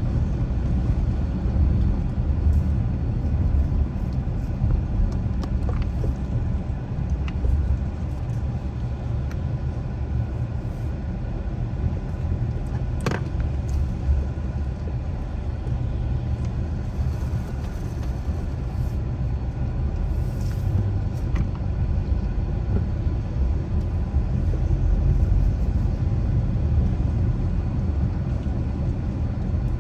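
Steady low rumble of a car driving: road and tyre noise with engine hum. A single sharp click comes about thirteen seconds in.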